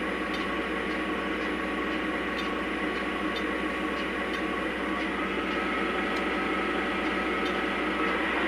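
Model Norfolk Southern Dash 9 locomotive's onboard sound system playing a diesel engine rumble, which steps up in pitch about five seconds in as the engine sound is notched up to a higher level.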